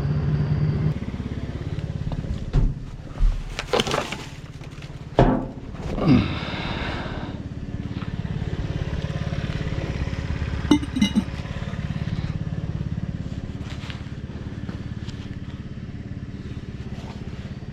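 Truck engine running steadily at low revs, with several knocks and a clatter between about two and seven seconds in, and a few clicks a little past the middle.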